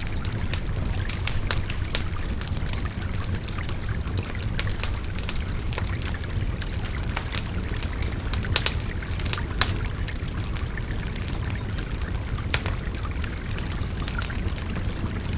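Wood fire crackling with scattered sharp pops, a few louder ones just past the middle, over the steady babble of a river.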